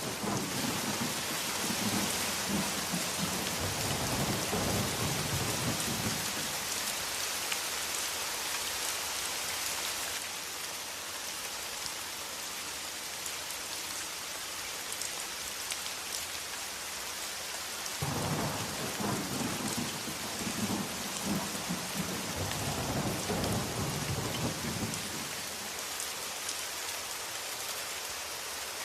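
Steady rain with thunder rumbling twice: one long rumble at the start lasting about six seconds, and another beginning about 18 seconds in and fading out some seven seconds later.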